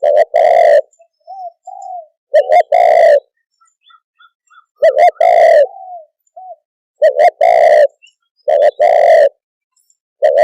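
Spotted dove cooing. About five phrases come roughly every two seconds, each two quick short notes followed by a longer rough coo, with a few softer short notes between phrases.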